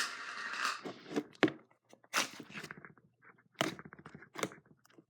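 Yellow slime being handled and tested in the hands, probably out of its plastic container: a short rustle at the start, then scattered small clicks and crackles as the slime is squished and stretched.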